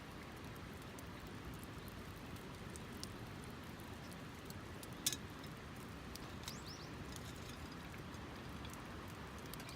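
Soft, steady rush of flowing water with scattered small clicks and one sharper tap about five seconds in.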